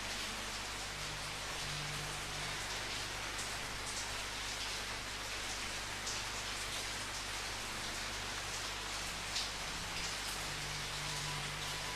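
Steady rain falling on a surface, a dense even hiss with scattered individual drop ticks, one a little louder about nine seconds in.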